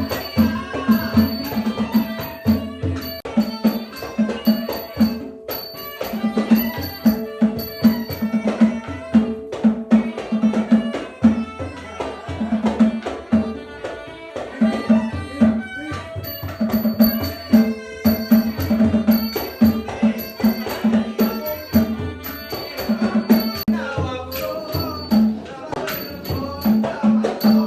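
Traditional southern Thai nora ensemble music: fast, driving drum strokes with a regular high clink of small cymbals and held melodic tones over them. The cymbal clinks drop out briefly about halfway through, then resume.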